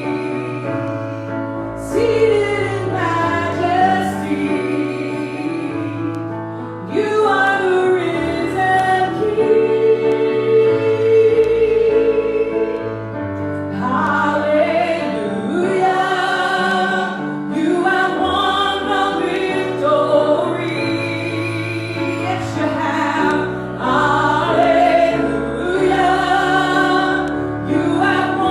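Christian worship song: voices singing together like a choir over instrumental backing with sustained bass notes.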